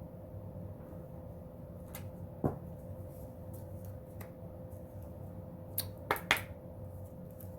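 Oracle cards being handled: a few scattered sharp clicks and snaps, with three close together near the end, over a steady low electrical hum.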